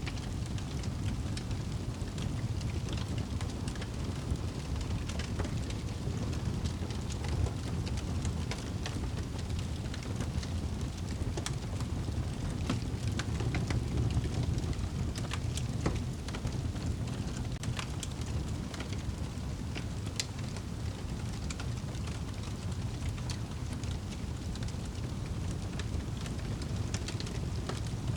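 Wood fire burning in a fireplace: a steady low rushing of the flames with frequent irregular sharp crackles and pops.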